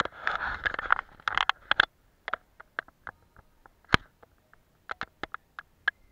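Paintbrush working on paper, a scratchy brushing for about the first two seconds, then only scattered light clicks and taps.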